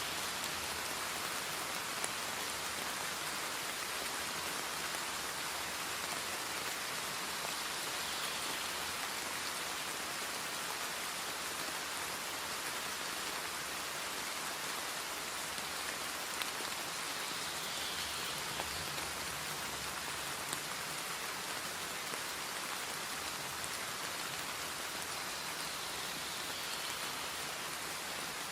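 Steady rain-like hiss, even throughout, with a few faint ticks.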